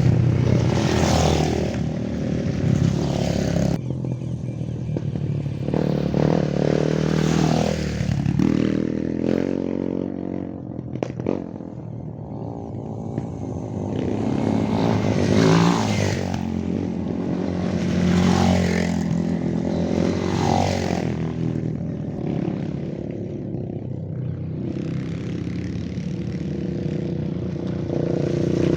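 Off-road trail motorcycle engines revving in neutral. The engine note climbs and falls in repeated throttle blips over a steady running note.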